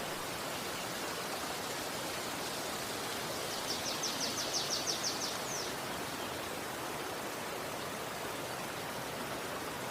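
Steady rushing of a river, with a small bird giving a high trill of about ten quick notes from about three and a half to five and a half seconds in.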